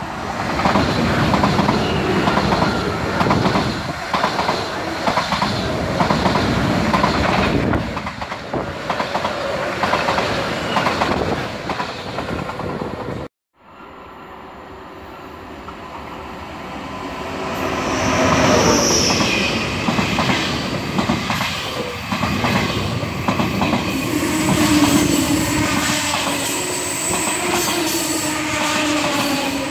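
An ICE T electric multiple unit (class 411 coupled to a class 415) passes close by, its wheels clattering over the rail joints and points. After a cut, an ICE 1 (class 401) comes in and rolls past, with a brief high wheel squeal and then a steady tone under the rolling noise.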